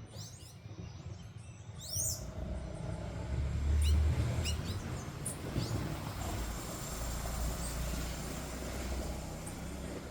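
Small birds chirping in short, separate calls, mostly in the first half, over a low rumble that swells about three seconds in and is the loudest sound.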